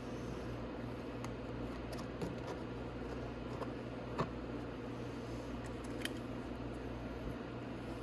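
Bolts being fitted by hand into an ATV's plastic footwell: a few scattered light clicks and taps of hardware over a steady low hum.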